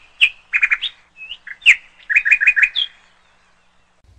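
Small songbird chirping in short high calls, with a quick run of four repeated notes about two seconds in and a rising note near three seconds.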